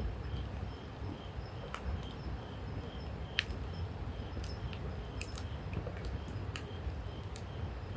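Wood campfire crackling, with scattered sharp pops (the sharpest about three and a half seconds in) over a steady low rumble. A faint high chirp repeats about twice a second throughout.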